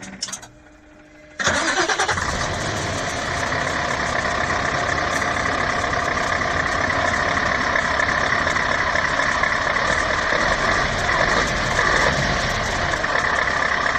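Truck diesel engine starting about a second and a half in, then running steadily.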